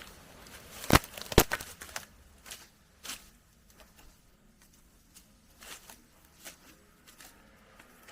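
Footsteps through undergrowth: scattered crackling and snapping of leaves and twigs underfoot, with two louder snaps or knocks about a second in.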